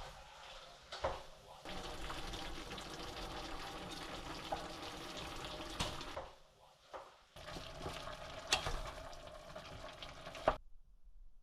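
Water running steadily from a kitchen tap in two stretches with a short break between, with a few light knocks of dishes. The sound cuts off suddenly near the end.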